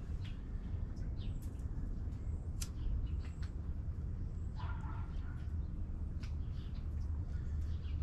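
Faint outdoor background: a low steady rumble with scattered short, high chirps of small birds.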